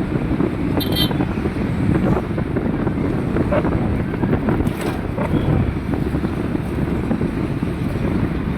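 Steady low rumble of road traffic in a truck jam, mixed with wind buffeting the microphone, with a brief high-pitched sound about a second in.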